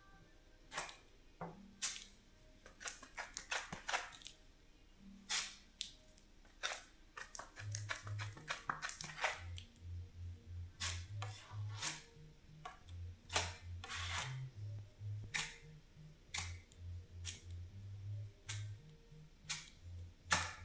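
Irregular sharp taps and clicks, a few to several a second. About seven and a half seconds in, quiet background music with a repeating bass line comes in under them.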